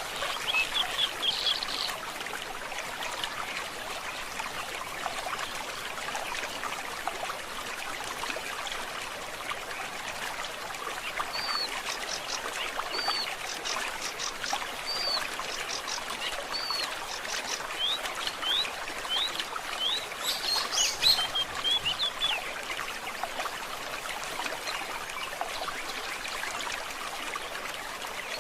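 Stream water trickling steadily, with birds calling over it: a brief trill near the start, then four short high arched notes about one and a half seconds apart, followed by a quicker run of rising notes and chatter about two-thirds of the way through.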